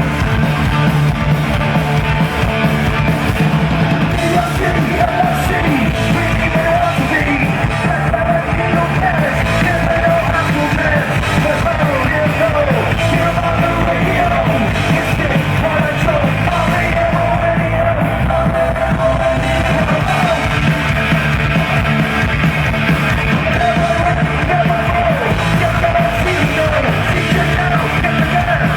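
Live rock band playing loud punk rock, with a shouted lead vocal over the band.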